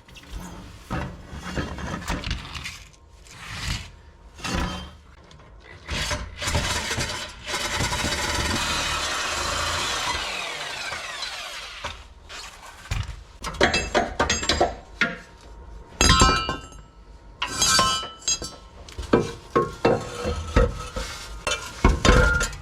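Hand and power tool work on metal exhaust parts. A steady power tool runs for about three seconds in the middle, followed by a run of sharp metallic clanks and knocks.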